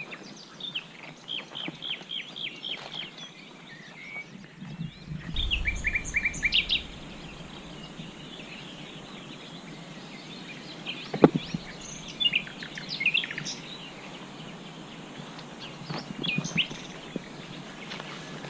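Small birds singing in riverside trees: a run of quick, repeated falling notes near the start, another burst about five to seven seconds in, and scattered calls later on. A brief low rumble about five seconds in, and a single sharp knock about eleven seconds in, the loudest sound.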